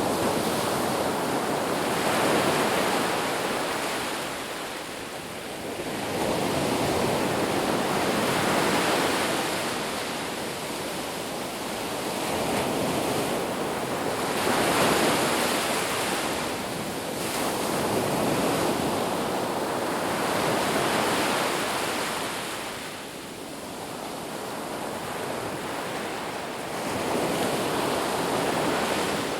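Sea waves washing onto the shore, the surf swelling and falling back roughly every six seconds.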